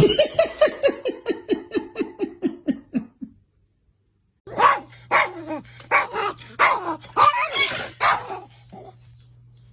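Dog barking: a fast run of short yips falling in pitch, then, after a brief gap, more irregular barks and yelps over a steady low hum.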